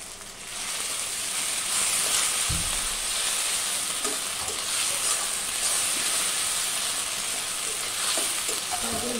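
Chopped onions and spice pastes sizzling in hot mustard oil in a metal karahi, stirred and scraped with a metal spatula. The sizzle swells about half a second in and then holds steady.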